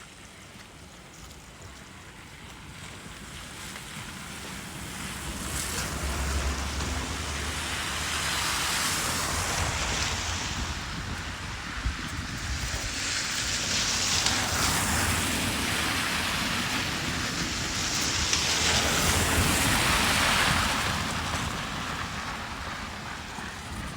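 Snowstorm wind blowing in gusts that swell and fade several times, buffeting the microphone with a low rumble.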